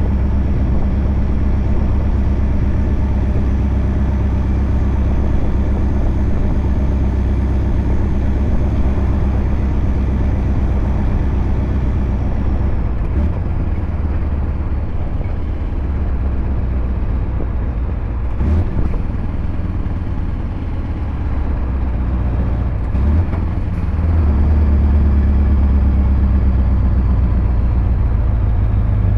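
Scania R580 V8 diesel truck engine with a straight-piped exhaust, running with a steady deep drone. A few brief knocks are heard, and it grows louder about 24 seconds in.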